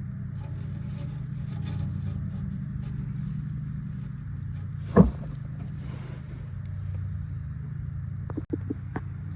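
An engine or motor running steadily with a low, even hum, with one sharp knock about halfway through and a few light clicks near the end.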